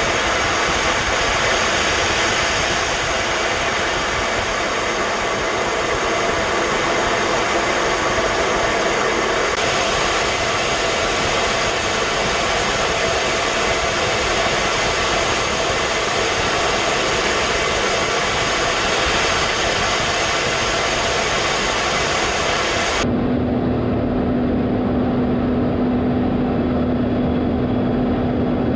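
Jet aircraft engine noise, a steady rush with a few faint steady tones, changing abruptly about ten seconds in and again near the end, where a steady low hum comes in.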